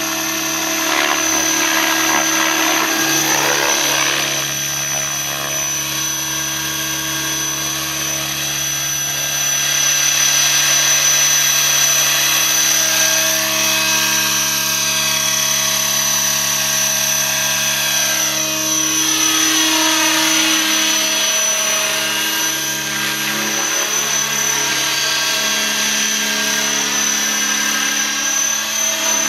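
Align T-Rex 600 radio-controlled model helicopter in flight: the rotor hum with a steady high whine from the drivetrain, swelling and shifting in tone as it makes passes.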